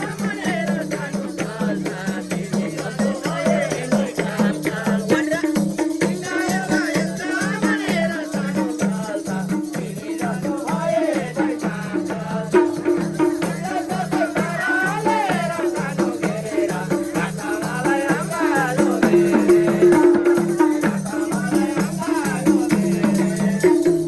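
Nepali folk dohori music playing without vocals: a fast, even percussion beat over sustained low tones, with a wavering melody line above.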